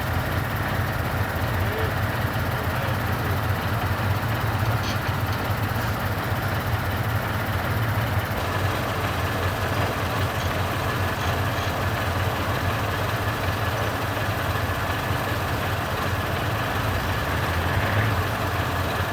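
Heavy diesel truck engine running steadily, with no change in revs.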